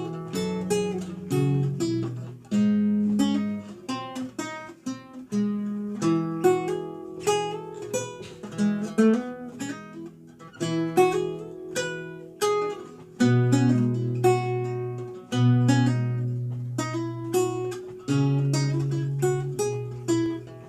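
Renaissance lute played solo: a continuous run of plucked melody notes over lower bass notes, each note starting sharply and ringing away.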